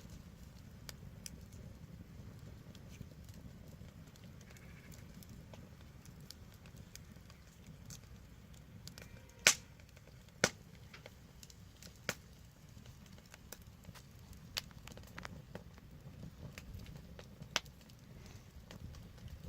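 Wood fire burning with sparse crackles and sharp pops over a low steady rumble of flames; two loud pops come about halfway through, a second apart, with a few smaller ones after.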